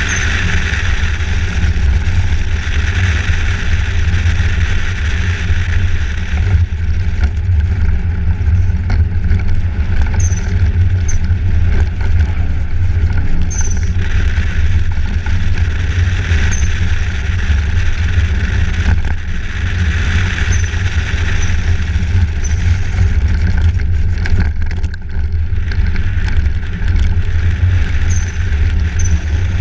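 A motor vehicle driving with a steady, loud low rumble and road hiss, and a few faint, brief high chirps here and there.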